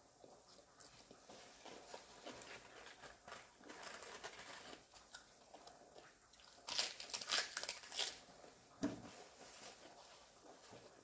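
Close-up eating sounds: soft chewing clicks, then a run of loud, crisp crunches a little past the middle as a leaf of iceberg lettuce is bitten and chewed, followed by a single dull thump.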